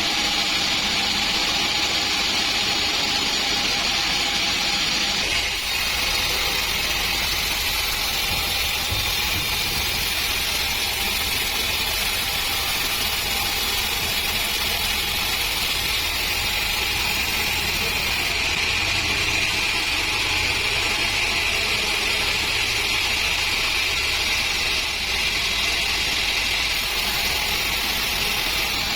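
Sawmill band saw running steadily as it saws a dry acacia log: a continuous machine drone with a high hiss, its tone shifting slightly about six and again about eighteen seconds in.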